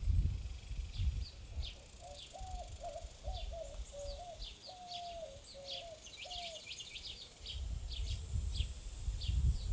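Small birds chirping at a feeder, with short high chirps throughout and a run of about eight lower call notes in the middle. Low rumbling wind noise on the microphone at the start and near the end.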